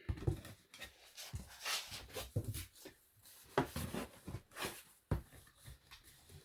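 Irregular rustling, rubbing and light knocks of small objects being handled and packed by hand.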